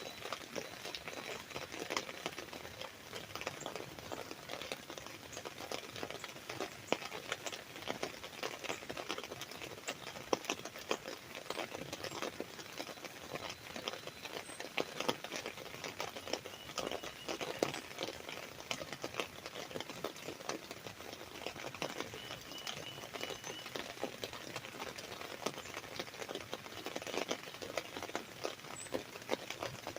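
Rain falling on an umbrella: a dense, steady patter of drops on the canopy, with scattered louder single drips.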